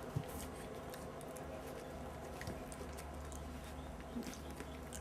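Month-old puppies playing: light pattering and scratching of small paws and claws, with a single low bump just after the start, over a steady low hum.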